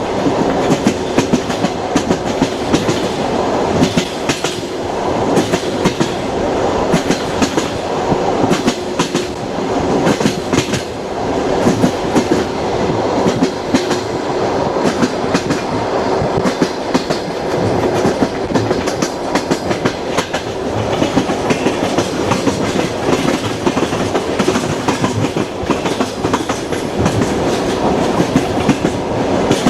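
Train running on the rails: a steady rumble of the wheels with dense, irregular clicking from the wheels on the track.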